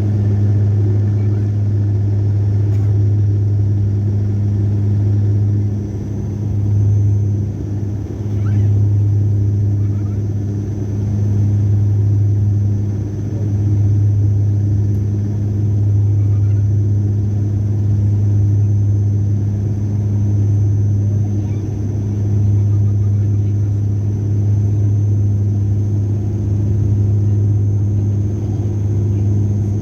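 A steady, loud, low mechanical hum with a faint high whine above it, dipping slightly a few times.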